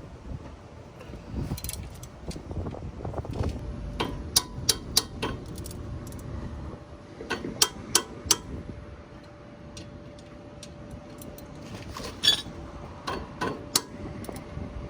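Metal tools and brake parts clicking and clinking as a brake caliper is refitted over new pads, in small clusters of sharp clicks. A faint steady tone sounds underneath from a few seconds in.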